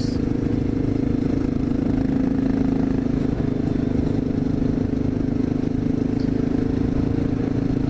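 Honda XR650L's single-cylinder four-stroke engine running at a steady cruising speed under way, a constant even drone.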